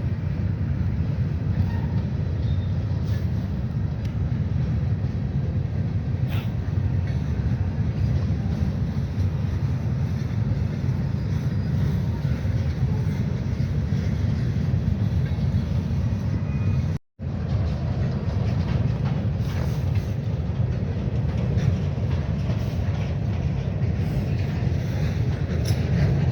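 Wheeling & Lake Erie freight train rolling past, a steady low rumble of railcars on the track. The sound cuts out for a moment about seventeen seconds in, then resumes.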